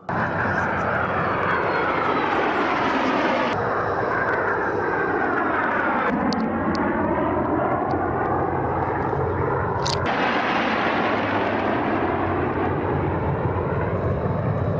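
Jet aircraft passing low, a loud rushing engine noise whose tone sweeps down and then back up.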